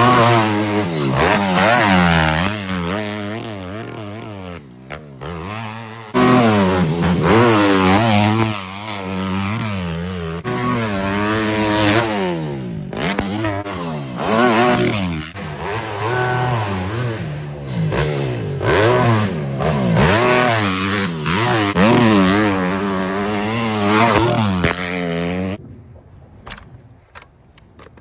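Dirt bike engine revving again and again, its pitch rising and falling with the throttle. It jumps suddenly louder about six seconds in and falls away to a faint sound near the end.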